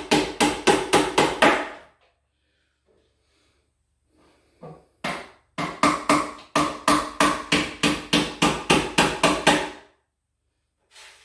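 Hammer driving nails into the wood panels of a closet organizer unit: two runs of quick, even strikes, about four or five a second, the panel ringing briefly after each blow. A couple of single taps come between the runs.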